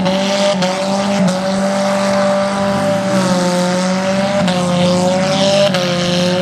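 Demolition derby car's engine running hard at high, steady revs, its pitch wavering slightly as the throttle is held.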